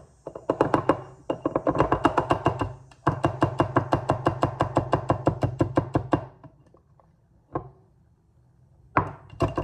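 A spice container of ground turmeric being shaken hard over a jar, rattling rapidly at about eight strokes a second in three runs. This is followed by a few separate knocks near the end.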